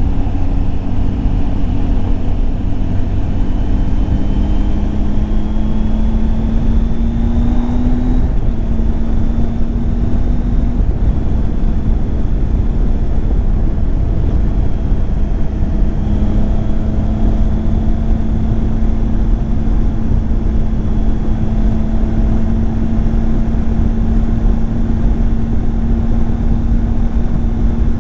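Triumph Tiger 800 XCX's three-cylinder engine pulling under way, its pitch climbing over the first eight seconds, dipping briefly, then holding steady at cruising speed over a constant low rush of wind and road noise.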